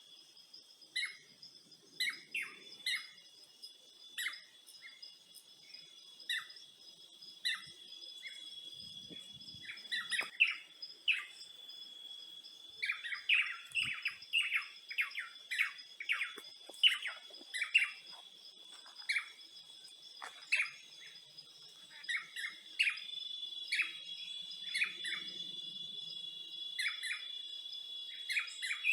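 Birds chirping in short, quick, repeated calls, busiest around the middle, over a steady high-pitched insect drone.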